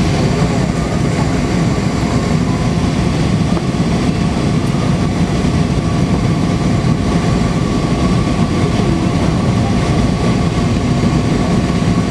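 Steady engine and airflow noise heard inside the cabin of an Airbus A320 airliner in flight, a low, even rumble with a faint steady whine over it.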